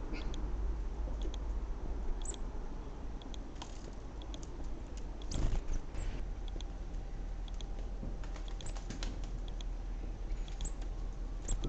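Small garden birds at a feeder: scattered light taps and clicks with a few brief high chirps, over a steady low hum.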